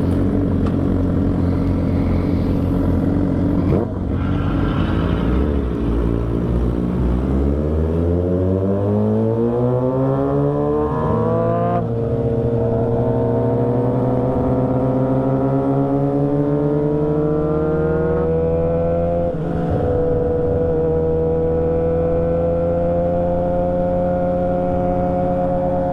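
Motorcycle engine accelerating through the gears: the revs climb steadily, drop at an upshift about halfway through, climb again and drop at a second upshift, then settle into a steady cruise.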